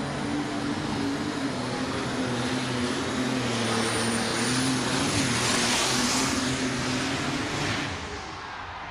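John Deere alcohol-fuelled super stock pulling tractor at full throttle, dragging the sled down the track with a high turbocharger whine over the engine. The engine eases off about eight seconds in as the pull ends.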